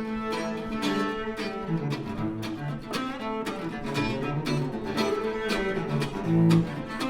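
Cello and mandolin duo playing live: the cello bows a moving line of low notes while the mandolin picks sharp plucked notes above it, with a louder low cello note near the end.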